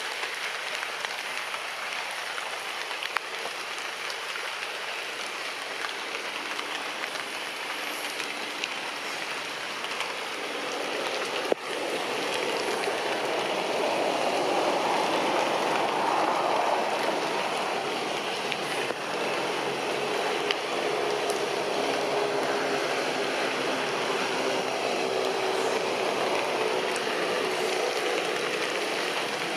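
Steady rain pattering on tree leaves, growing louder about halfway through, with a sharp tap from a drip or a knock near the middle.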